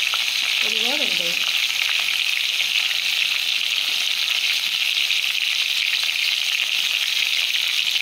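Masala-coated whole crabs frying in hot oil in a kadai, giving a steady sizzle. A slotted spoon stirs and turns them in the oil.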